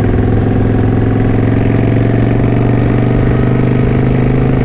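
Kawasaki Vulcan 900 Classic LT's V-twin engine running at a steady engine speed while riding.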